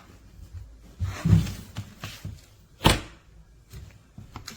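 Handling noises as a portable compressor fridge is moved about: a soft scraping rustle about a second in, then a single sharp thunk just before three seconds.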